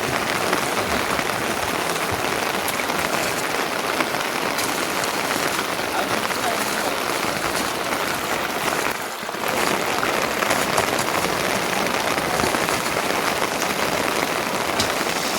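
Steady rain falling, an even hiss that drops away briefly about nine seconds in.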